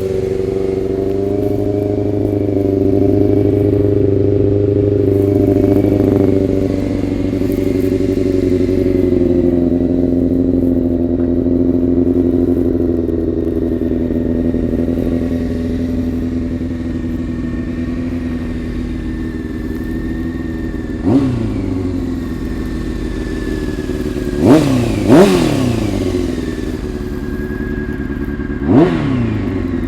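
2002 Honda CBR600 F4i's inline-four engine idling steadily through a Two Brothers aftermarket exhaust. Near the end it is revved in four quick throttle blips, two of them close together, which are the loudest moments.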